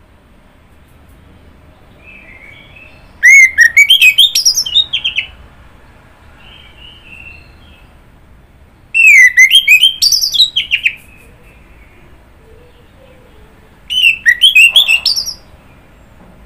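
Orange-headed thrush singing: three loud phrases of rapid, sliding whistled notes, each about two seconds long, with faint softer notes in the pauses between them.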